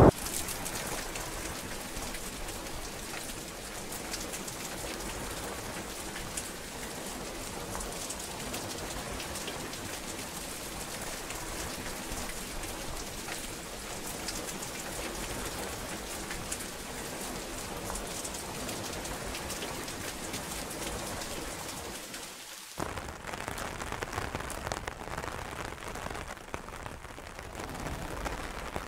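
Steady rainfall, with fine ticking drops pattering on a surface. About two-thirds of the way in it drops out for a moment, then comes back as a fuller, heavier-sounding rain.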